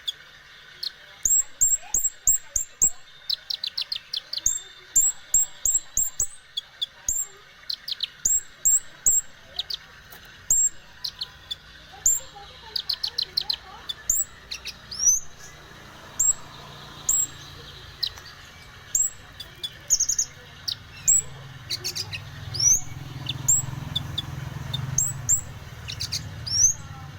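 Konin, a kingfisher, calling busily: a long run of sharp, high, rising chirps, with short quick trills in between.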